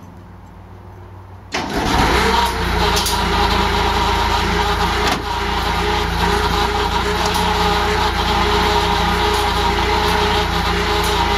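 Hydraulic power pack's Ford 2.3-litre inline-four industrial engine starting: it catches suddenly about one and a half seconds in, settles within a moment, then runs steadily.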